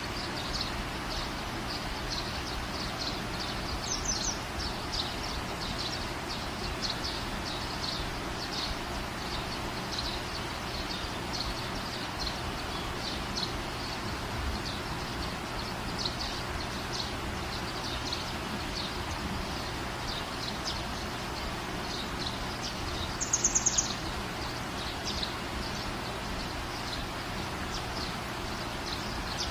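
Steady background hum with small birds chirping over and over, and a bicycle bell rung in a quick trill about three-quarters of the way through, with a fainter ring about four seconds in.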